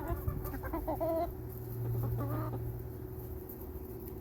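Backyard hens clucking: a cluster of short calls in the first second and another about two seconds in, over a steady low hum.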